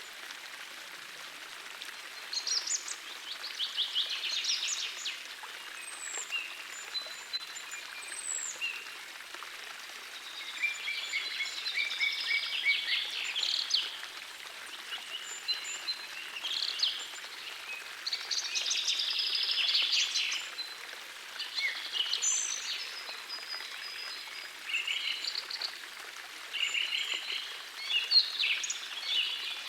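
Birds singing in repeated bouts of fast trills and chirps over the steady rush of a gentle forest stream.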